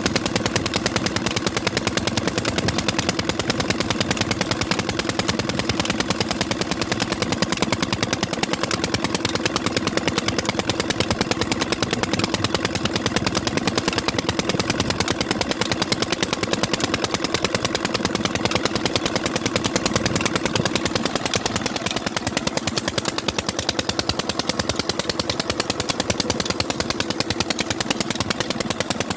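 Old engine running steadily, its exhaust firing in rapid, even beats.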